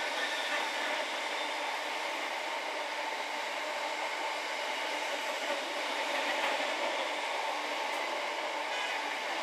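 Greater Anglia electric multiple unit running past on the far track, a steady noise of wheels rolling on the rails.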